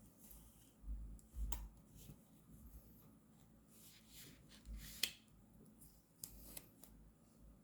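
Paper and sticker sheets being handled for journal decorating: soft rustles and small taps, with a sharper click about five seconds in.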